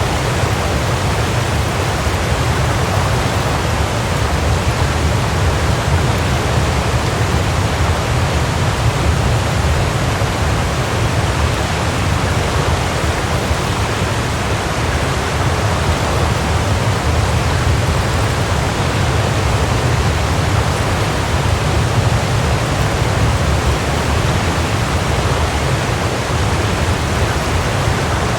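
Waterfall: steady rushing of falling water, constant and unchanging, with a heavy low rumble under a broad hiss.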